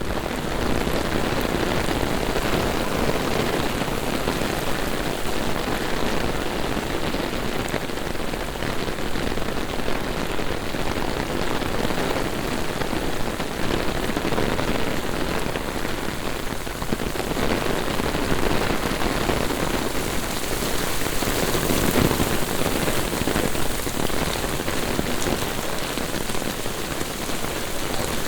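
Heavy rain pouring down in a steady dense hiss, swelling briefly a little over twenty seconds in.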